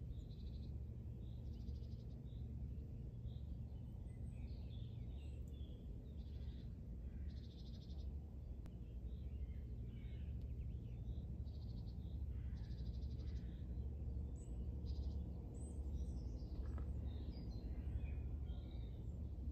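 Outdoor birdsong: several birds singing and calling, with short buzzy trills repeated every second or two among scattered chirps. A steady low rumble lies under it.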